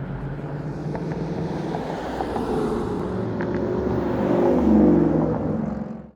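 Ford Mustang GT's 5.0-litre V8 exhaust running, rising in pitch and loudness as it revs to a peak about four to five seconds in, then easing off. The sound cuts off abruptly near the end.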